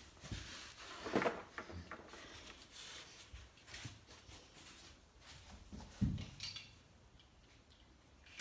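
Clicks and knocks of die-cast Matchbox toy cars being handled on a toy race track, with a louder clatter about a second in and a dull thud about six seconds in.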